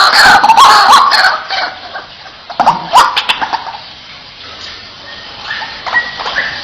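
White-breasted waterhen calling: a run of loud, harsh, repeated calls that bend in pitch for about the first second and a half. The calls then drop away to a quieter stretch with a few sharp clicks near the middle, and fainter calls return near the end.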